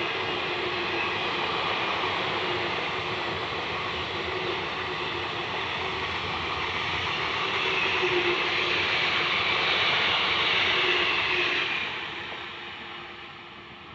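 Indian Railways express train passing through a station without stopping, a steady rush and rumble of coaches running on the rails. It swells about two-thirds of the way in, then fades over the last couple of seconds as the rear of the train moves away.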